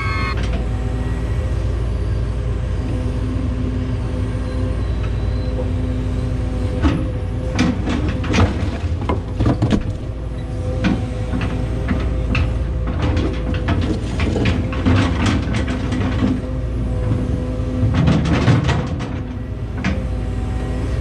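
Hydraulic excavator's diesel engine running steadily with a low drone and a held whine, while a string of irregular knocks and clanks comes from the machine working, thickest in the middle and again near the end.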